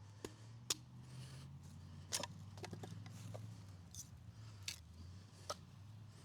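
Scattered sharp clicks and knocks of objects being handled, irregular and a dozen or so in all, over a low steady rumble.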